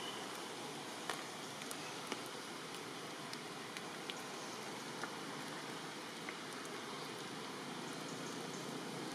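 Steady rain falling, with scattered sharp drops landing close by.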